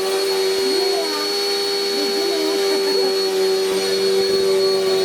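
Household vacuum cleaner running steadily: an even motor whine over a rushing hiss.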